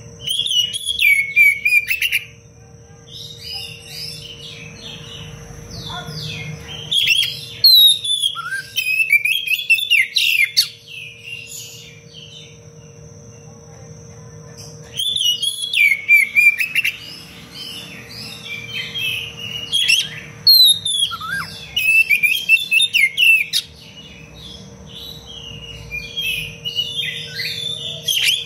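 Oriental magpie-robin singing in fast, dense bursts of varied whistles, chirps and trills, in several bouts broken by short pauses.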